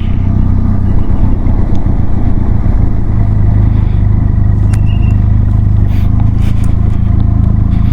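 Motorcycle engine, the Benelli TRK 502X's parallel twin, running at a steady cruise with no revving, heard under a rushing haze of riding noise.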